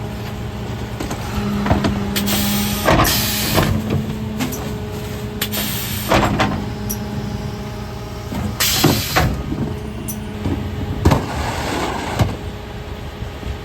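Mercedes Econic refuse truck with a Faun Variopress body, its engine and hydraulics running with a steady hum that rises for a few seconds and then drops back. Several loud hisses of air and a string of metallic knocks and bangs from the bin-lifting and compacting gear sound over it.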